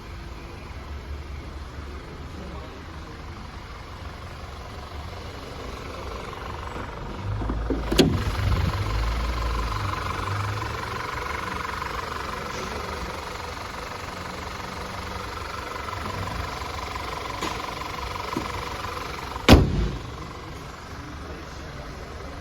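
2014 Audi Q5's 2.0-litre turbocharged four-cylinder engine running, a steady low rumble, with a higher steady whine that comes in about a third of the way through and fades away over about ten seconds. Two sharp knocks stand out, one about a third of the way in and a louder one near the end.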